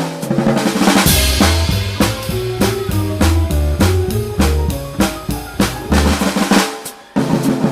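A jazz combo playing, with a busy drum kit of snare hits and cymbals, a cymbal crash about a second in, over low bass notes and pitched chords. The bass drops out near the end.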